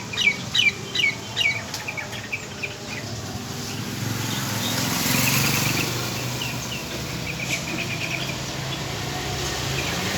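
Bali starling calling: a quick run of loud, downward-sweeping chirps, about three a second, in the first second and a half, then softer short chattering notes later on.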